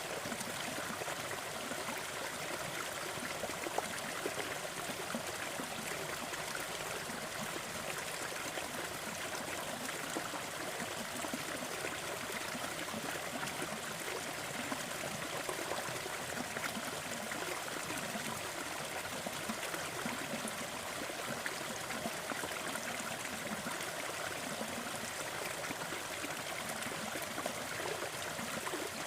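Small waterfall running, a steady splashing rush of water with a light trickling texture.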